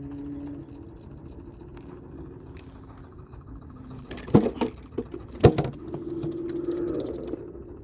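A steady low mechanical hum, with two sharp clicks or knocks about four and a half and five and a half seconds in.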